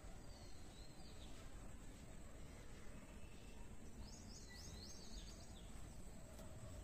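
Faint outdoor ambience: a steady low background hum with small birds chirping, a quick run of chirps about four seconds in.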